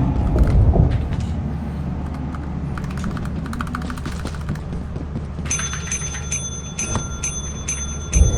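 A small bell hit over and over, about three strikes a second, starting a little past halfway. Before that there is only a low rumble with scattered faint clicks.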